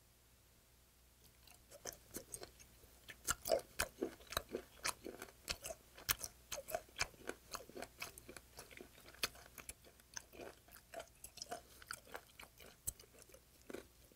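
A person chewing raw yellow stingray sashimi, with rapid, irregular wet smacking clicks that start about a second and a half in.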